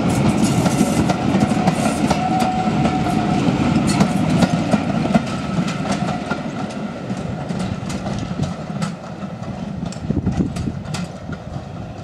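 Railway passenger coaches rolling past and away, their wheels clicking over the rail joints, the rumble fading steadily as the train draws off.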